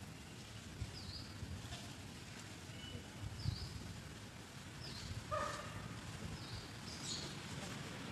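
Birds chirping: a short high chirp repeats roughly every second and a half, and one louder, lower pitched call comes about five seconds in, over a low rumble of background noise.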